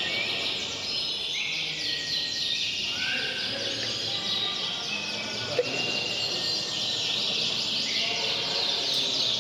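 Domestic canaries singing, a dense run of rapid overlapping trills and chirps at several pitches over steady background noise, with one brief sharp click a little past halfway.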